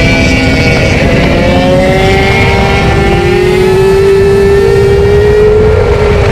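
Yamaha R6 inline-four engine at high revs, its pitch rising steadily as the bike accelerates through a gear. Heavy wind and road rush comes through on the bike-mounted microphone.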